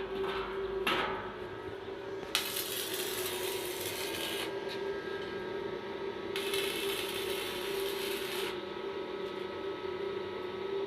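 Metalworking tool noise: a steady machine hum, broken twice by hissing stretches of about two seconds each, with a few sharp knocks near the start.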